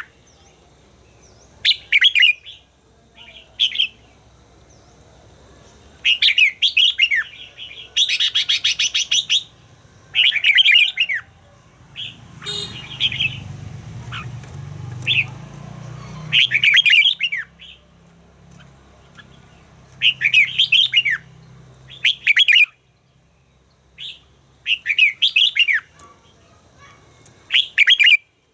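Red-whiskered bulbul singing short, loud warbling phrases, one every second or two, with a fast rattling trill about eight seconds in.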